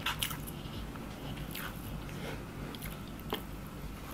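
Close-miked chewing of egg fried rice, with sharp clicks of a wooden spoon against a plastic bowl: two right at the start and one about three seconds in.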